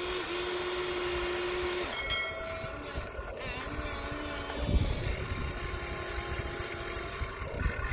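Electric motors of radio-controlled model excavators whining as they work sand, in held tones that shift pitch as different motions start and stop, over a steady gritty rattle.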